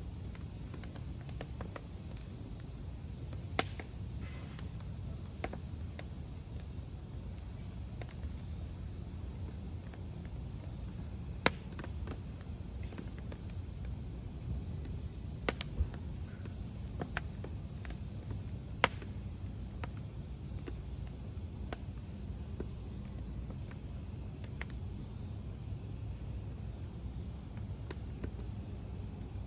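Crickets chirring in a steady, unbroken high trill, with a wood campfire crackling underneath and giving a handful of sharp pops, the loudest about a third of the way in and a pair a little past halfway.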